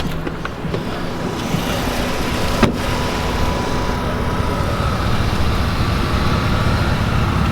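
A car running, with steady engine and road noise, and a single sharp click about two and a half seconds in.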